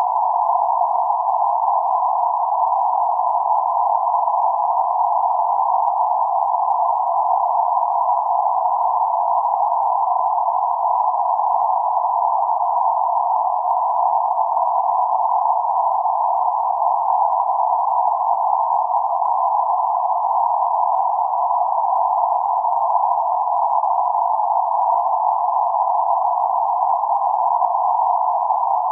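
Steady band-limited noise centred around 848 Hz, a narrow rushing hiss confined to the midrange with no highs or lows, unchanging throughout.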